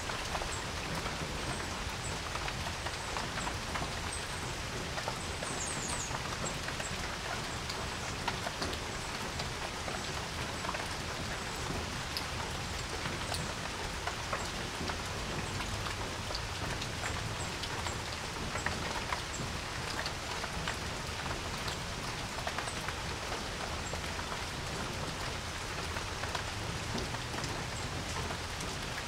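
Steady rain falling on a porch, with many separate drops ticking sharply against the nearer surfaces.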